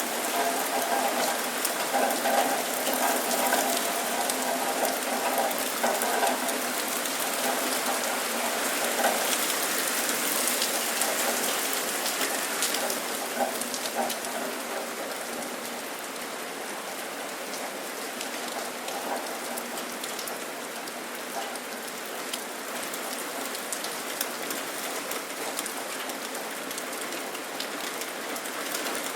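Steady rain falling and pattering on surfaces, with a faint hum under it in roughly the first ten seconds. The rain eases slightly past the middle.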